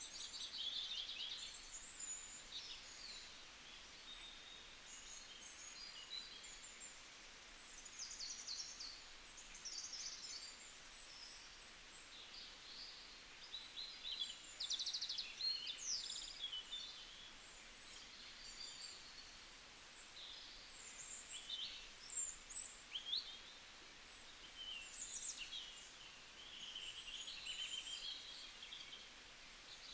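Several small songbirds chirping and trilling: many short, high calls and quick note series overlapping, louder in a few spells, over a faint steady hiss of ambient forest noise.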